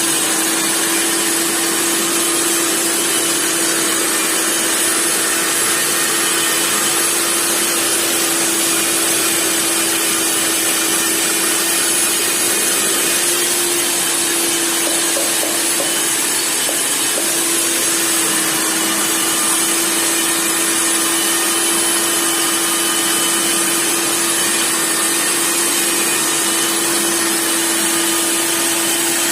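Hilti DD 250 CA diamond core drill running steadily at its normal speed setting: an even motor tone that holds one pitch over a constant hiss.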